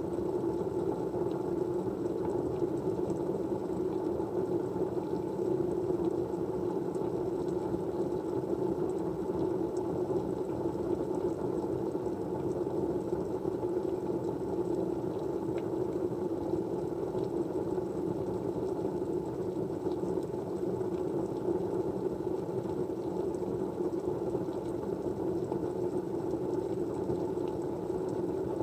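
Steady, low rushing white-noise ambience that holds even throughout, with a few faint ticks scattered over it.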